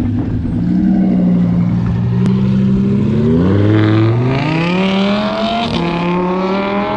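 Lamborghini Huracan's V10 accelerating hard away from a standstill: the engine note holds, then climbs twice in pitch, with a drop at a gear change about two-thirds of the way through.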